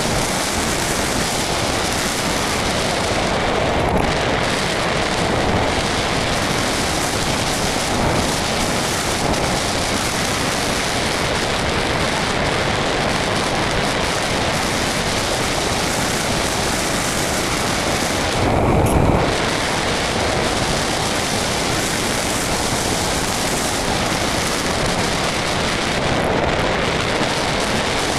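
Steady rush of wind over the microphone of an onboard camera riding on a flying RC model plane. One stronger low buffet comes a little past two-thirds of the way through.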